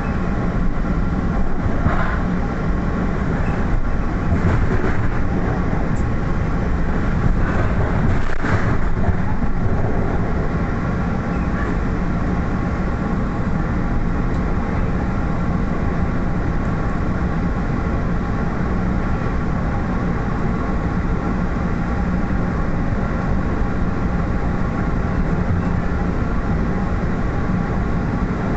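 Inside a moving commuter rail passenger coach: a steady rumble of the train running along the track, with a constant hum of several steady tones and a few faint brief knocks.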